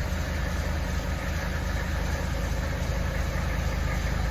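1979 Mercedes-Benz 300SD's 3.0-litre five-cylinder turbodiesel idling steadily just after a cold start, with the even clatter of a cold diesel.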